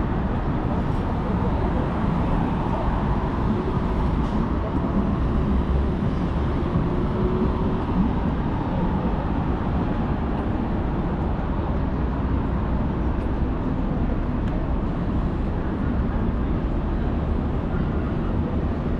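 Steady downtown street ambience: a continuous rumble of traffic, with passers-by talking.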